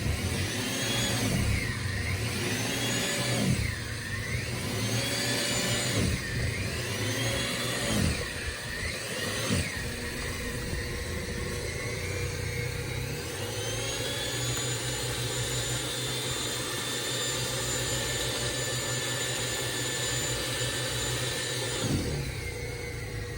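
Small plastic snow thrower's motor working through deep snow. For the first ten seconds or so its pitch keeps dropping and recovering as it bogs down under the load. After that it runs at a steady whine.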